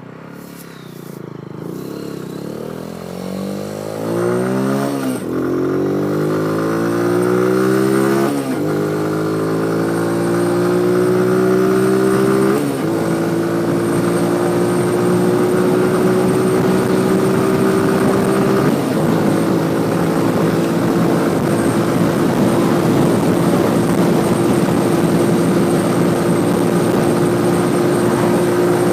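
Motorcycle engine accelerating through the gears: the pitch climbs and drops sharply at four upshifts over the first twenty seconds or so, then holds nearly steady at cruising speed, with rushing wind noise under it.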